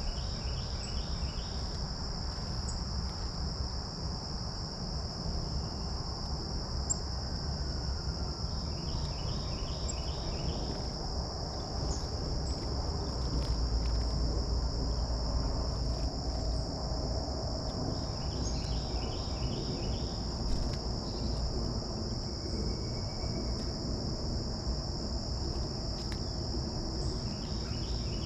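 A steady, unbroken chorus of crickets, a high continuous trill. About every eight or nine seconds a bird sings a short phrase of rapidly repeated notes, and a low wind rumble on the microphone swells in the middle.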